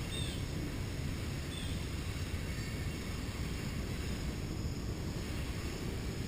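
Steady low outdoor background rumble with no distinct events, with a couple of faint short chirps near the start.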